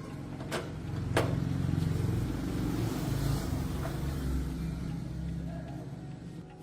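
An engine running, growing louder after about a second and then slowly fading, with two sharp clicks near the start.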